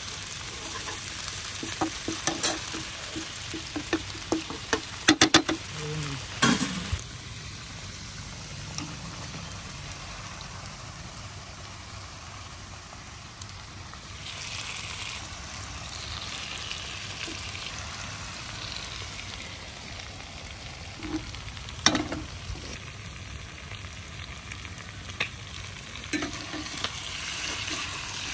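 Chopped onions and curry leaves sizzling in oil in a pan, with a steel spatula stirring and knocking sharply against the pan. About halfway through the sizzle turns louder and brighter as raw chicken pieces go in, and the spatula knocks come again near the end.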